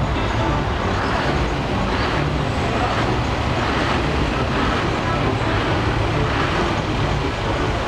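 Heavy truck engine running steadily, with a constant low rumble.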